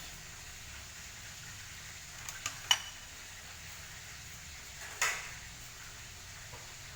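Kitchen utensils knocking against cookware: three quick metal clinks about two and a half seconds in, the last one ringing briefly, then a single louder clatter about five seconds in, over a faint steady hiss.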